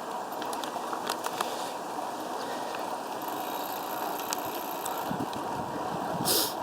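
Steady rushing noise of riding a bicycle in strong wind, with scattered light clicks and rattles from the bike. A brief louder gust hits the microphone near the end.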